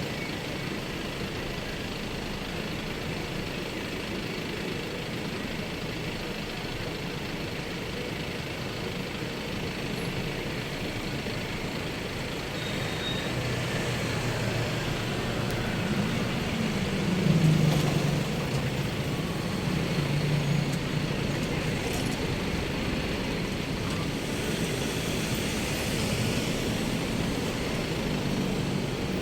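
Road traffic noise, a steady hum of vehicles on the road. Near the middle a heavier engine grows louder and its pitch rises and falls as it passes.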